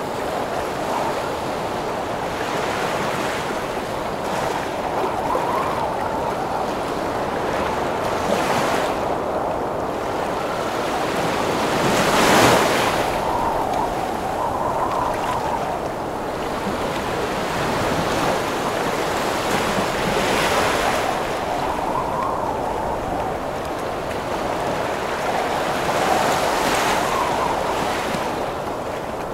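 Heavy ocean surf breaking in a strong wind storm: a continuous rush of water and wind that swells as waves crash every several seconds, the biggest crash about twelve seconds in.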